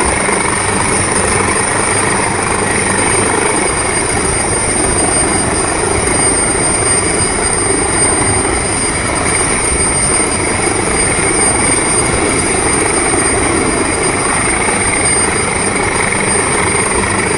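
Rescue helicopter running steadily: a loud, dense rotor and engine noise with a high thin whine above it that holds throughout.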